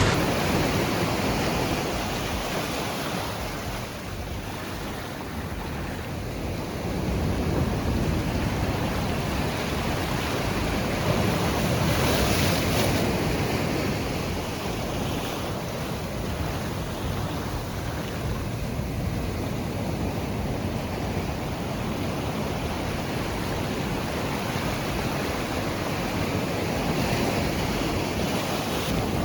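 Ocean surf breaking and washing up on a sandy beach, a steady rush that swells and ebbs, with a hissier wave about twelve seconds in. Wind buffets the microphone.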